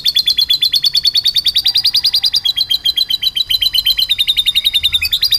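Domestic canary singing a long, fast rolling trill of repeated notes, about fourteen a second, in lovebird-style song that the canary has learned. The trill shifts pitch slightly a few times without a break.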